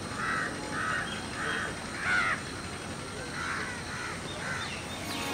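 Birds calling in woodland: a run of short, repeated calls about two a second, with a louder one about two seconds in and a brief gap around the third second.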